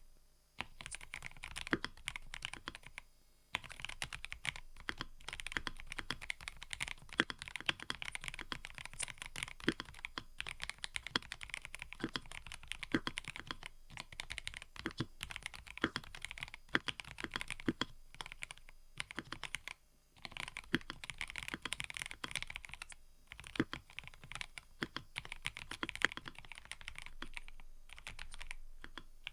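Continuous typing on a mechanical keyboard: a dense, irregular run of key clicks and clacks, with brief pauses about three seconds in and about twenty seconds in.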